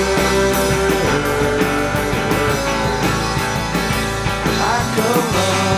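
Rock music: a band with guitar and drums playing between sung lines.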